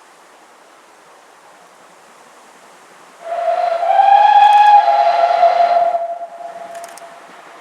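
Steam locomotive whistle blown once, a little after three seconds in, for about three seconds. It holds one steady, fairly high note with a slight rise at its start and fades out over a faint steady background.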